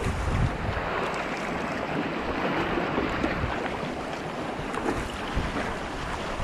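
Waves and water rushing and splashing against a moving kayak's hull, steady throughout, with wind buffeting the microphone.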